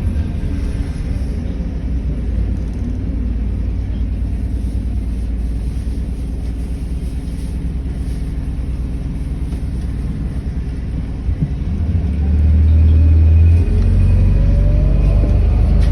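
City bus heard from inside the cabin: a steady low engine and road rumble. About twelve seconds in it grows louder, and a rising whine follows as the bus picks up speed.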